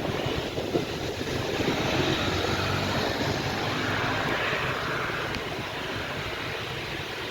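Jet engines of a Boeing 737 airliner running, a steady roar that swells a little about two seconds in and then eases slightly.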